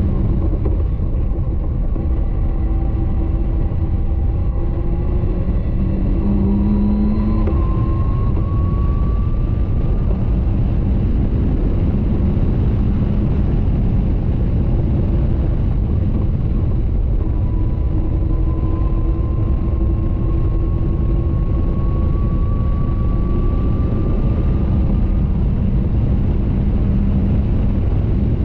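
Caterham 620R's supercharged 2.0-litre four-cylinder engine pulling hard at track speed, heard from the open cockpit under heavy wind rush. Its pitch climbs slowly through two long stretches, a few seconds in and again past the middle.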